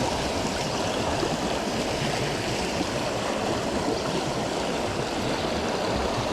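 Creek water rushing steadily, a continuous even wash of flowing water.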